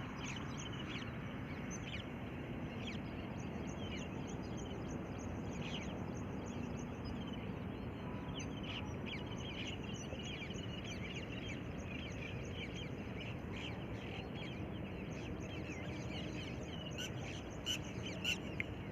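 Many short bird calls over a steady background noise, with a few sharp clicks near the end.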